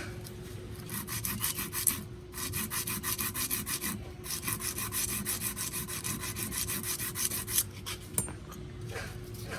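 Rapid, even back-and-forth scraping strokes of hand abrasive work, cleaning a starter motor part. The strokes come in three runs with short breaks about two and four seconds in, and stop shortly before the end.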